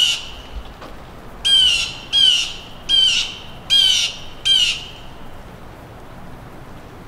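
A bird giving a series of loud, harsh calls, five in a row about two-thirds of a second apart starting about a second and a half in. The tail of an earlier call is heard right at the start.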